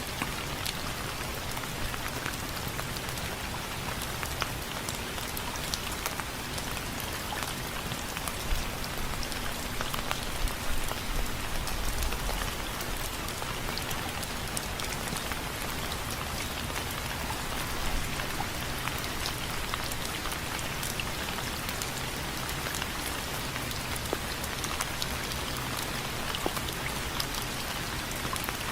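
Steady rain falling on a window frame, a constant hiss with many individual drops ticking sharply against it.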